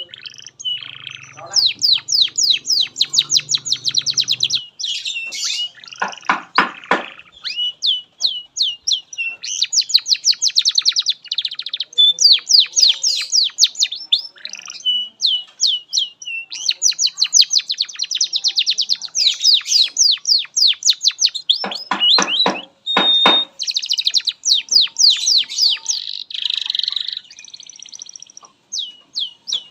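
A domestic canary sings a long, nearly continuous song of fast trills and rolls with only short breaks. Twice, about six seconds in and again near the 22-second mark, it breaks into a rapid pulsing roll that reaches much lower in pitch.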